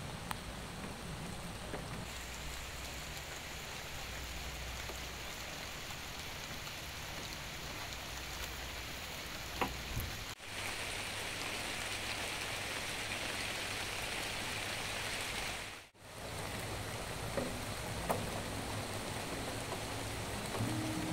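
Steady rain falling on wet stone paving, with a few single drops ticking now and then. The sound drops out briefly about ten seconds in and again about sixteen seconds in, and it is louder between those two points.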